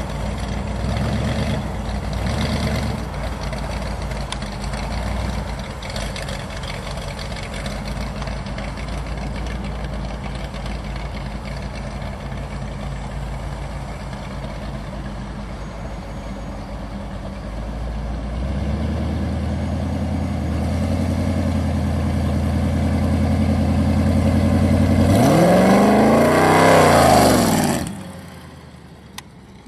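A big custom trike's motorcycle engine idles with short throttle blips. Near the end it is revved up hard, rising and falling in pitch, before the sound drops away suddenly.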